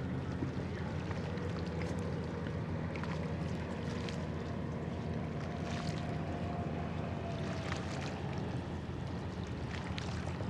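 Cargo ship's engine running with a steady low drone, with a few faint clicks over it.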